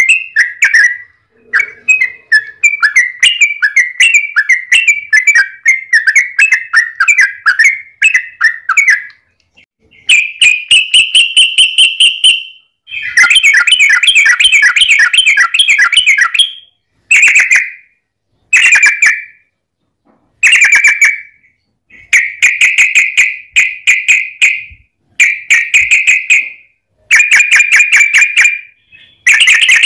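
Yellow-vented bulbul (trucukan) singing long rapid chattering phrases of quick repeated notes. There is one long run at the start, then shorter phrases and bursts separated by brief pauses.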